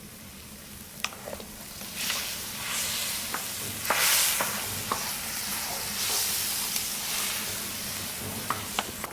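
Pork belly and kimchi sizzling in pork fat on a cast-iron cauldron lid (sotttukkeong), the sizzle growing louder about two seconds in, with a few sharp clicks of a utensil on the lid.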